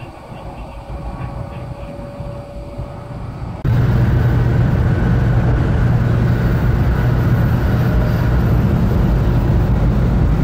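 Train running noise: a steady rumble that jumps abruptly louder about three and a half seconds in and stays loud.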